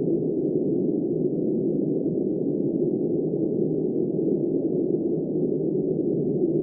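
Steady, muffled wind noise: an even, deep rush with no high hiss and no gusts or swells.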